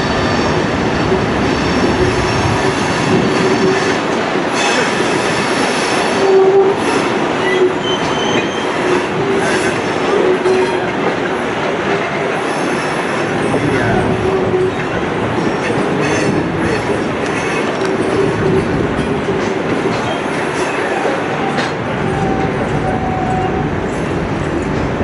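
Royal Gorge Route Railroad passenger train running on the rails: a steady rumble with wheels squealing in drawn-out tones that come and go.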